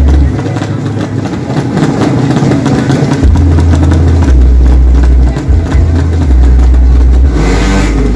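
Drag-racing motorcycle engines running and revving, with a heavy low rumble throughout. About seven and a half seconds in, an engine sweeps down in pitch.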